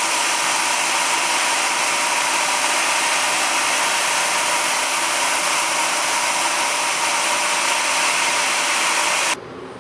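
A machine running steadily during the thread-cutting for the plug-hole insert, a loud even hiss with a few steady tones. It stops suddenly near the end.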